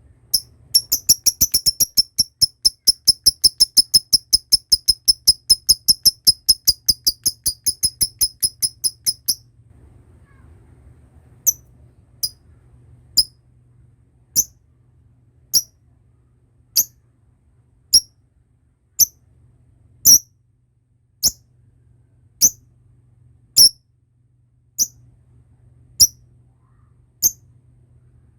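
Lovebird's long chattering trill (ngekek): a fast, even run of sharp, high chirps, about five a second, lasting some eight seconds. After a short pause it gives single chirps about once a second.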